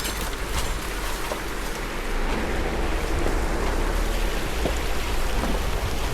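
Rushing water: a steady, even rush of falling or running water with a deep low rumble underneath, unbroken throughout.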